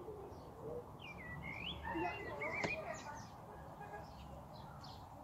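Small birds chirping and singing in quick warbling phrases, with one sharp click about two and a half seconds in.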